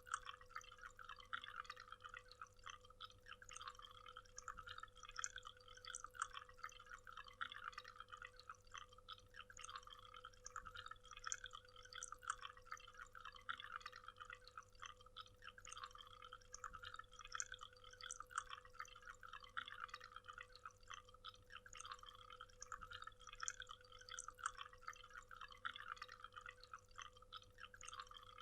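Waterfall: water falling and splashing in a dense, steady patter of drops and trickles, played faintly.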